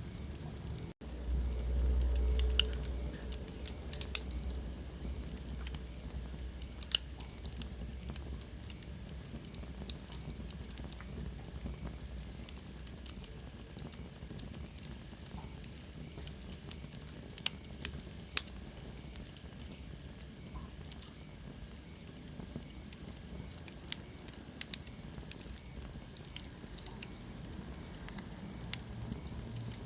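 Wood fire burning in a fireplace: irregular sharp pops and crackles over a steady low rumble of the flames, with a brief dropout about a second in. A little past halfway a faint high whistle slides down in pitch.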